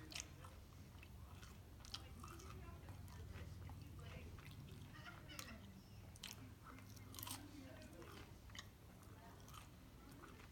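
Faint close-up chewing of a quesadilla, with soft crunches and mouth clicks and another bite taken partway through.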